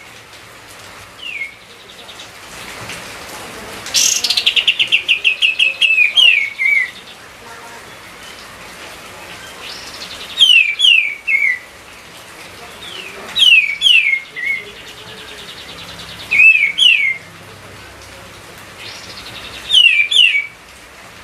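Kapas tembak songbird singing loudly: short phrases of two or three quick whistled notes, each sliding down in pitch, repeated every three seconds or so, with a rapid run of about a dozen notes about four seconds in. Its constant, agitated singing is the kind used as a lure to set other birds singing.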